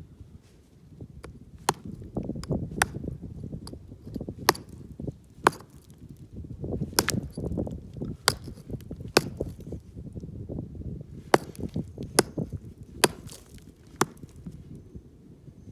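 Rock pick striking rock again and again to break loose mica, about a dozen sharp hits roughly a second apart, with rough low scraping noise between strikes.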